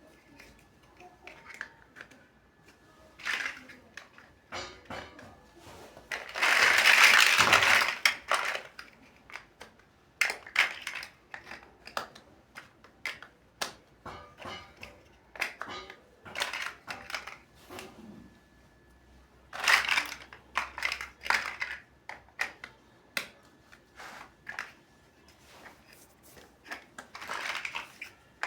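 Plastic building bricks clicking and clattering as they are handled and pressed together, in irregular sharp ticks with short rustles. About six seconds in comes a louder, longer noisy burst lasting about two seconds.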